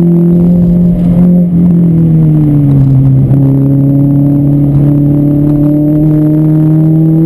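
Car engine running hard, heard from inside a stripped-out cabin on track. About two seconds in the revs fall over roughly a second, then climb slowly and steadily again.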